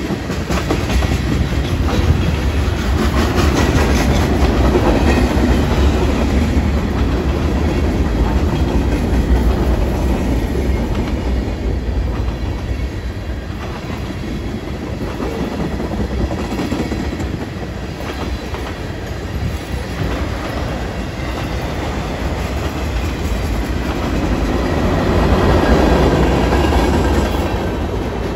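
Freight train cars rolling past at speed: a steady rumble of steel wheels on rail, with wheel clicks over the rail joints, swelling a little near the end.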